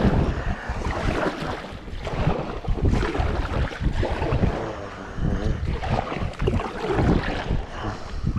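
Wind buffeting the microphone, with water splashing and sloshing around a kayak; gusty and uneven throughout.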